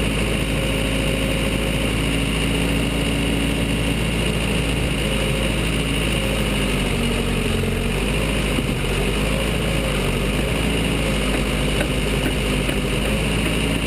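Case 580 Super L backhoe's diesel engine running steadily, its note wavering in the middle as the machine works.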